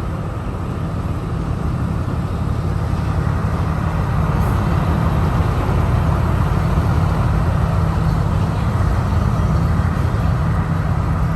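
Passenger train running along the track: a steady low rumble that grows louder over the first few seconds and then holds.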